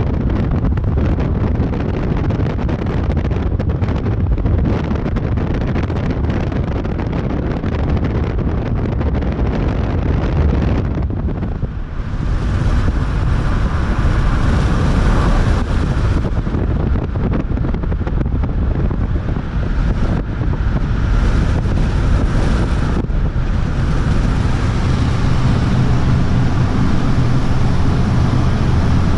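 Wind buffeting the microphone over a steady low rumble, with a brief dip and change in tone about twelve seconds in.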